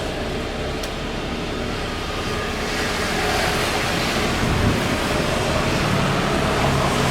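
Steady rushing noise that swells about three seconds in, with a low hum appearing near the end.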